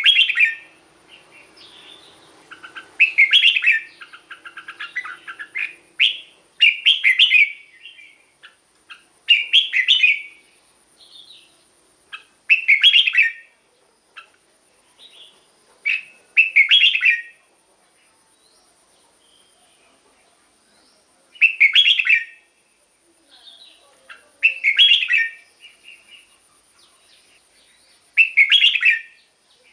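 Red-whiskered bulbul singing: loud, short phrases of about a second each, repeated every few seconds with a longer pause around the middle.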